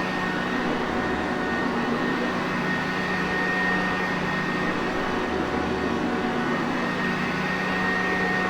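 Sanitaire Perfect vacuum cleaner running steadily: a constant rush of air with a low motor hum and a thin high whine.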